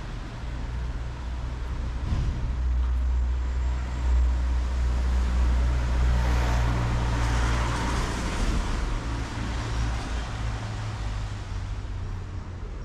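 A motor vehicle passing close in street traffic. Its low engine rumble builds, is loudest in the middle, then fades. Tyre hiss on the rain-wet street rises and falls as it goes by.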